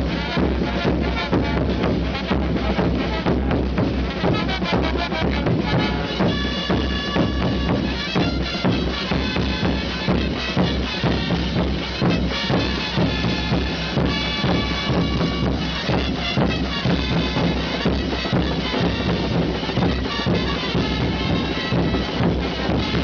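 Live festival dance band: drums, bass drum among them, beating a steady rhythm, with wind instruments playing a melody over them for a while in the middle.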